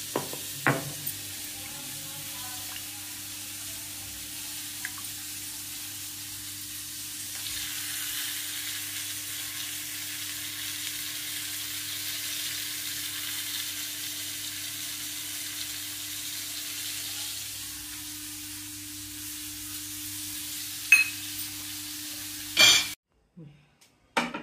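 Brinjal curry sizzling steadily in oil in a pan on a gas stove, a little water just added, the hiss swelling somewhat in the middle. A few sharp utensil clinks come near the start and near the end, and then the sound cuts off suddenly.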